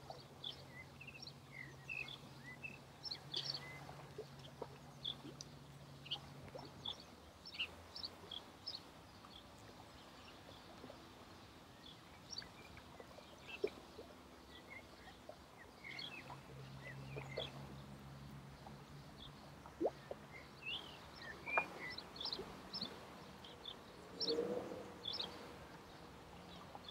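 Faint birdsong: small birds chirping with scattered short calls throughout. Under them a faint low hum comes and goes, present for the first several seconds and again in the middle.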